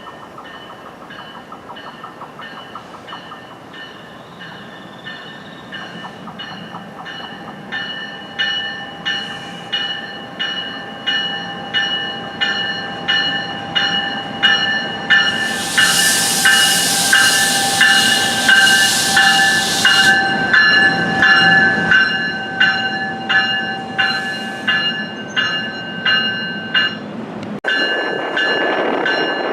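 Train's warning bell ringing steadily, about one and a half strikes a second, growing louder as the train approaches over a low rumble. A loud hiss lasts about four seconds midway.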